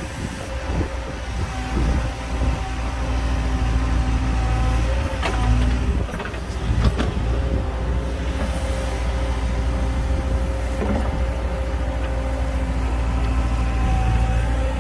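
Heavy diesel earthmoving machinery, a wheel loader or dump truck, running steadily with a deep engine rumble and a faint steady whine. A few sharp metallic clanks come about five to seven seconds in.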